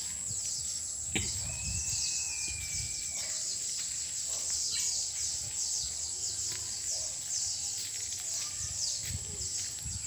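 A flock of small birds chirping in a dense chorus of quick, high, falling chirps, with one longer whistled note about a second and a half in.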